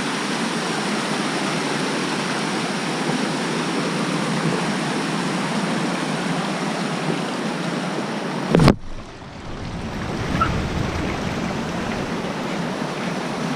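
Steady rush of falling or running water from the Cascada Diamante waterfall or its stream. About two-thirds of the way through, a sudden loud knock, after which the rush sounds duller and lower.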